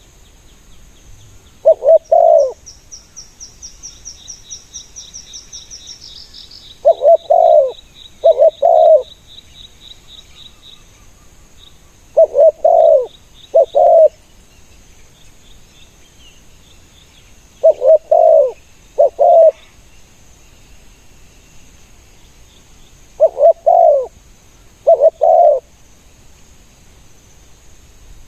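Spotted dove cooing: five phrases of a few low, loud coos each, about five seconds apart. Early on, a faint rapid high trill sounds behind it for several seconds.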